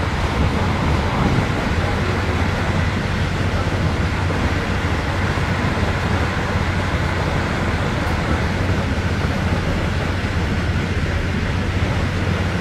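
Steady rumble and rolling noise of a passenger train running at speed, heard from inside the carriage.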